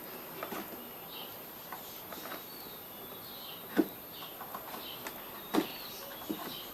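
A handful of sharp clicks and taps, the loudest about two-thirds and four-fifths of the way through, over steady hiss and faint bird chirping in the background.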